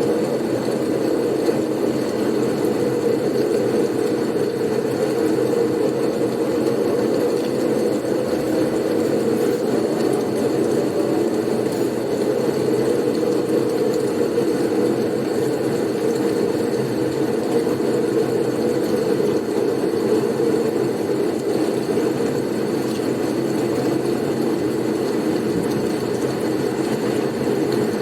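Blizzard wind noise: a steady, unbroken low rush that does not rise or fall.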